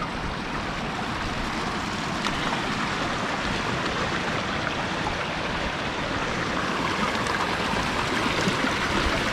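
Stream water running over rocks and small falls: a steady rushing hiss that grows slowly louder.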